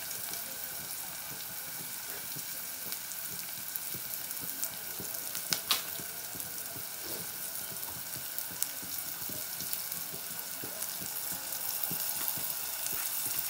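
Sliced onions and spices frying in oil in a nonstick saucepan, a steady sizzle with fine crackling pops. A single sharp click about five and a half seconds in.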